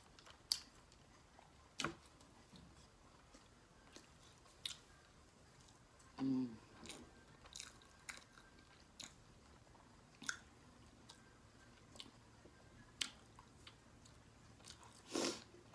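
Close-up chewing of roast pork and rice and beans: wet mouth clicks and smacks at irregular intervals, with a short hum about six seconds in.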